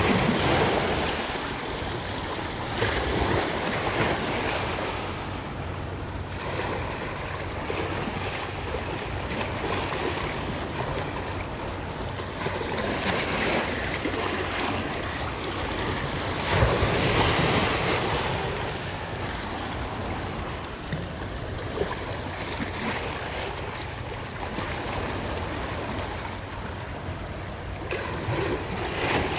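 Sea waves washing in against the shore, swelling and falling back every few seconds, with wind buffeting the microphone and a faint steady low hum underneath.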